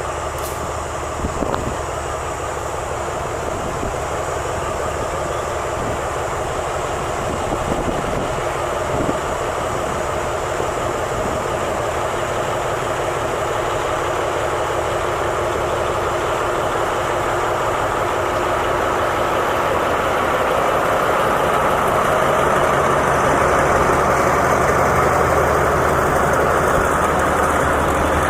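Alsthom diesel-electric locomotive running under power as it pulls a passenger train out of the station, a steady engine hum with rolling noise that grows slowly louder, with a few knocks early on and again partway through.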